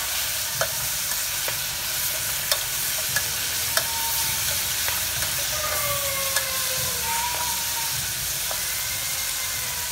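Food frying with a steady sizzle in an aluminium pot while a spoon stirs it, the spoon clicking against the pot now and then.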